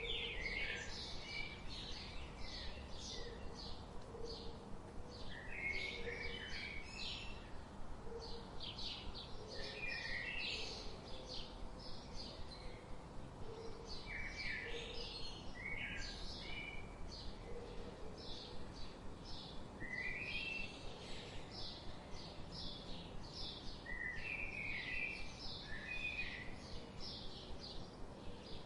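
Songbirds singing: a steady run of short high chirps, with brief lower song phrases every few seconds, over a faint steady background hiss.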